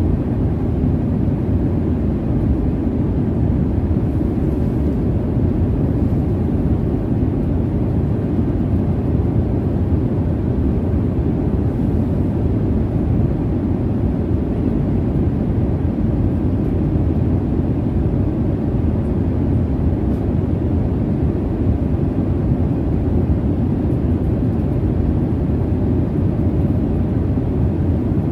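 Steady low jet-airliner cabin noise: an even, deep rush of engine and airflow noise, with no changes or distinct events.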